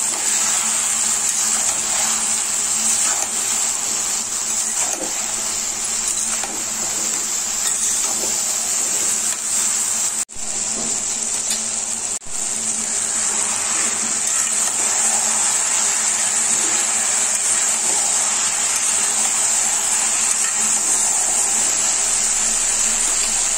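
Okra and onion masala sizzling steadily in mustard oil in a kadhai, with light spatula stirring in the first half. The sound cuts out briefly twice near the middle.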